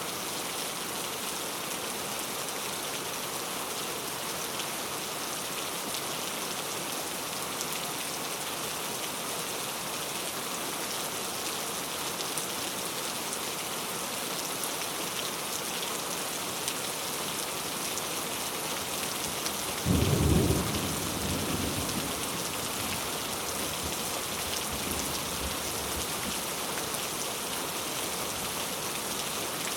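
Steady rain falling, with one clap of thunder about two-thirds of the way through that rumbles and dies away over a couple of seconds.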